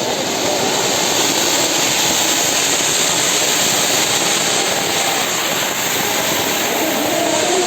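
Fireworks going off in a loud, continuous roar and hiss, with no single bang standing out.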